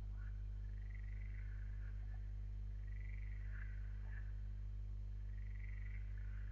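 Steady low hum, with an animal call rising and falling in an arc about every two and a half seconds above it, three times.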